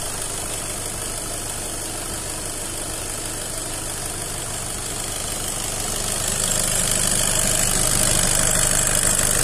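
VW Passat diesel engine idling steadily, with a hiss that grows louder about six and a half seconds in.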